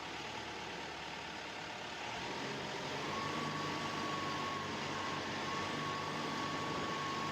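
Steady machine hum that gets louder about two seconds in, joined about a second later by a steady high whine.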